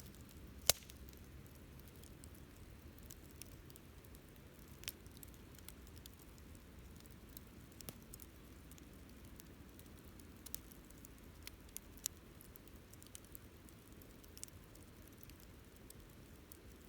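Wood campfire burning with a low hiss and irregular crackles and pops, one sharp pop less than a second in louder than the rest.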